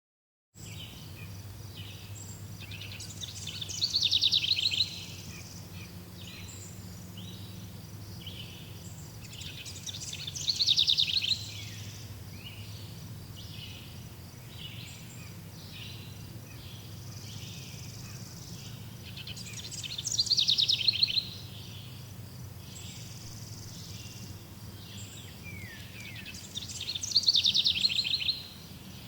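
Forest birdsong starting after a brief silence: one bird sings a loud, rapid trilling song four times, about every seven to eight seconds, over many softer chirps from other birds. A low steady hum lies underneath.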